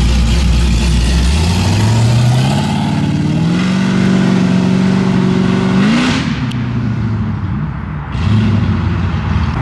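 A car engine accelerating hard, its note climbing in steps, with a final sharp rev about six seconds in before the driver lets off.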